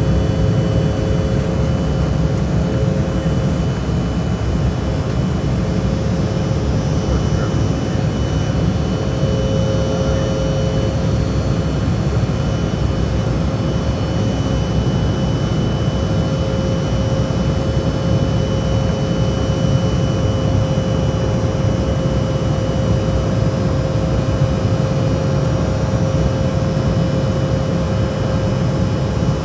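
Jet airliner engines running steadily, heard inside the cabin as a loud, even drone with a low rumble and a faint steady whine.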